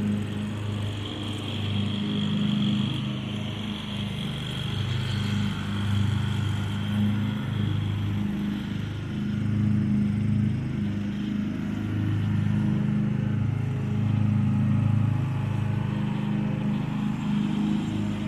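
Craftsman riding lawn mower engine running under load, its hum rising and falling as it moves. For the first few seconds a higher steady whine rides over it, from the two-stroke engine of an Echo SRM 225 string trimmer.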